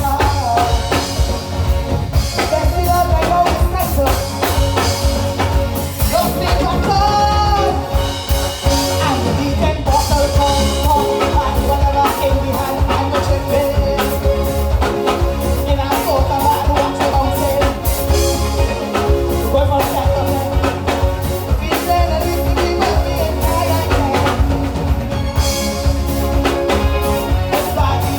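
Soca music played loud through a sound system, with a singer over a heavy bass line and a steady drum beat.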